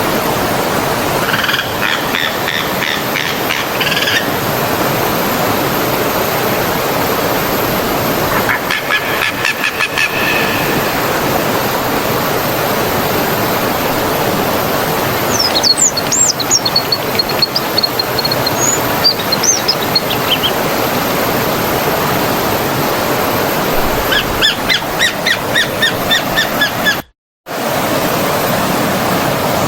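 Stream water flowing in a steady rush, with small birds chirping in several short bursts of quick repeated notes over it. The sound cuts out completely for a moment near the end.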